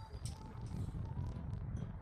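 Strong wind buffeting the microphone: an uneven low rumble, with a few faint knocks.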